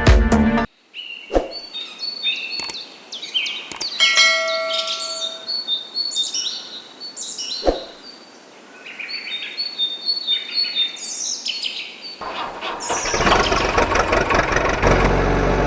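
Birds chirping, a series of short, quick chirps with a few sharp clicks among them. From about twelve seconds in, a louder, steady rushing noise rises.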